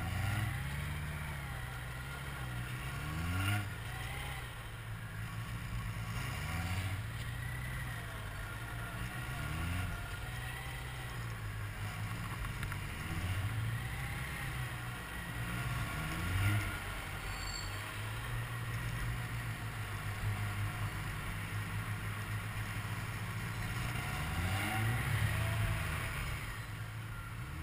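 Motorcycle engine at low speed through tight cone turns. The throttle is opened briefly every two to three seconds, so the engine note rises and then drops back.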